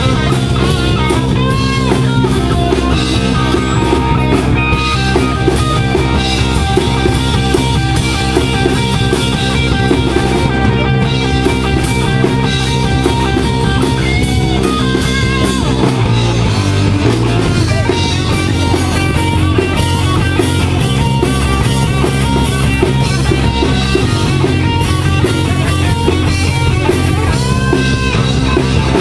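Rock band playing, with electric guitar and drum kit, loud and steady throughout, the bass line shifting about halfway through.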